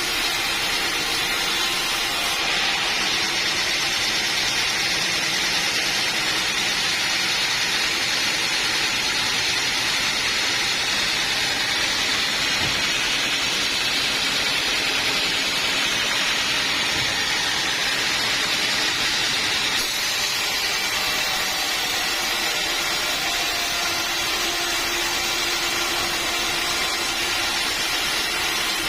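Sawmill saw running steadily through a teak log, a continuous hissing whine over the machinery's drone, its character shifting abruptly at about 2 s and again at about 20 s.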